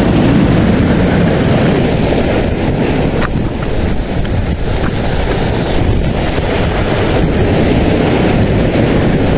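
Steady wind blowing across the microphone, with the wash of sea waves underneath.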